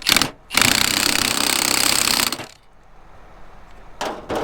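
Power impact wrench hammering: a short burst, then a run of about two seconds, then another short burst near the end, tightening a nut.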